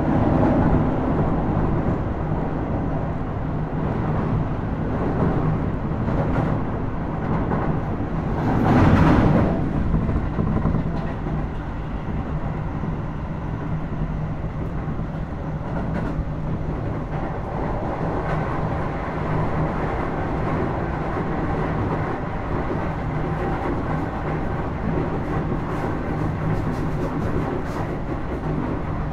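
Running sound inside a Keio Series 5000 (second-generation) electric train, motor car DeHa 5282, travelling at steady speed: continuous rumble of wheels on rail with a steady hum from the traction equipment. About nine seconds in there is a brief rushing swell that rises and dies away.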